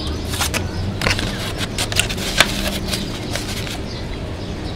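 A man chewing a bite of pizza close to the microphone: a run of crackly clicks from the crust and mouth, thinning out after about three seconds, over a steady low hum.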